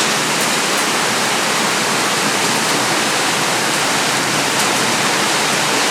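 Heavy downpour of rain, a dense, steady rush with a few faint ticks.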